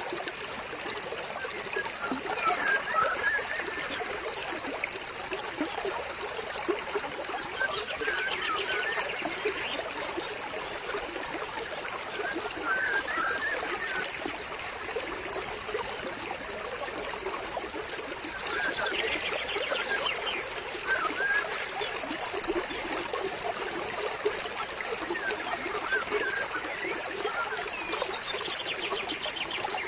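Stream water flowing and trickling steadily, with wild birds chirping in short bursts every few seconds and a rapid trill repeated three times.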